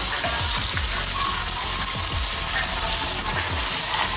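Steady sizzle of food frying in hot cooking oil.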